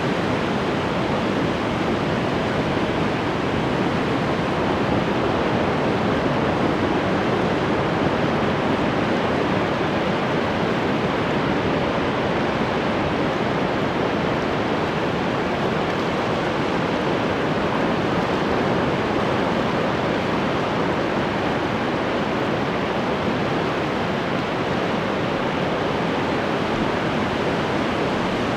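Ocean surf: a steady, continuous wash of breaking waves with no single wave standing out.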